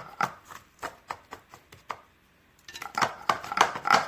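A spoon tapping and scraping against a small bottle as baking soda is spooned into it: scattered taps at first, then a brief pause, then a quick run of rapid taps, about seven a second, near the end.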